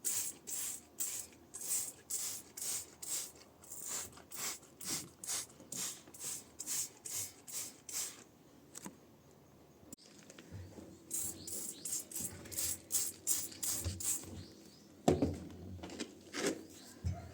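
Scrubbing on washing machine parts in a steady rhythm of short rubbing strokes, about two or three a second. The strokes pause briefly about eight seconds in, then resume faster, with a low thump near the end.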